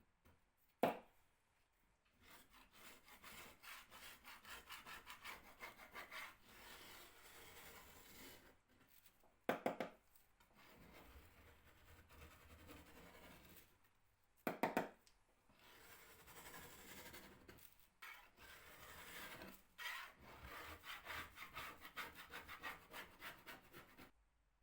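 Rhythmic back-and-forth strokes of a hand tool or abrasive rubbing on wood, a few strokes a second, in several runs with short pauses. Three sharp knocks stand out, the loudest sounds.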